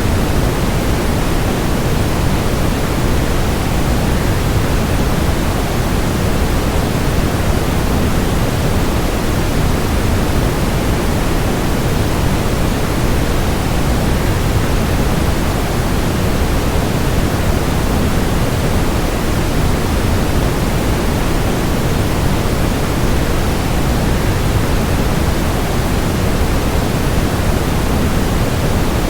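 Waterfall sound blended with white noise: a steady, unchanging rushing hiss, heaviest in the low end.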